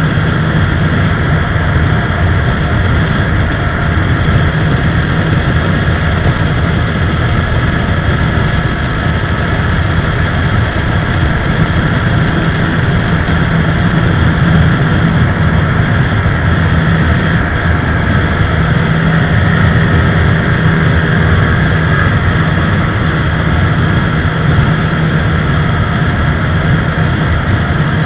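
TVS Apache 160 4V motorcycle's single-cylinder engine running at a steady speed, a constant drone with no revving up or down.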